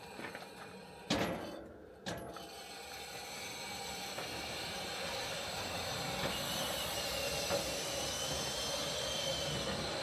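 An engine running steadily, with a faint high whine that rises a little in the second half. Two sudden loud knocks come about one and two seconds in.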